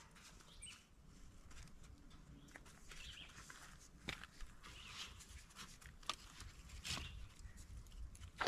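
Faint birdsong, with a few light clicks and knocks of handling.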